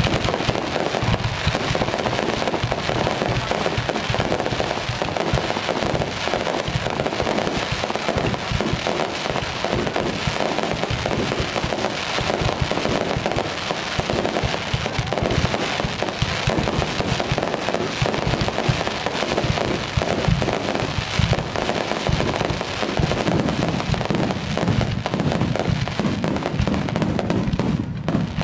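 Fireworks display in full flow: many aerial shells bursting in rapid, overlapping succession, a continuous barrage of bangs and crackle with no pause. It is picked up by a camera's built-in microphone at a fixed recording level, which blunts the force of the bangs.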